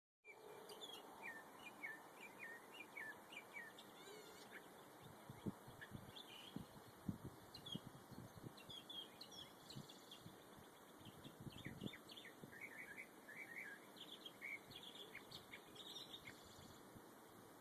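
A songbird singing faintly: a long run of short, high chirping notes, many of them quickly falling in pitch, coming in phrases. A few low thumps sound around the middle.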